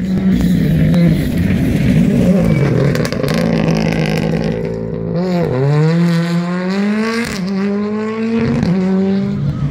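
Rally car engine at full throttle on a gravel stage. In the second half its pitch climbs, then drops sharply twice as it shifts up through the gears.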